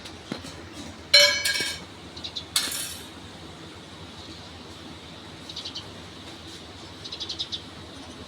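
House sparrows chirping in short, faint bursts. A loud ringing clink comes about a second in, followed shortly by a brief noisy burst.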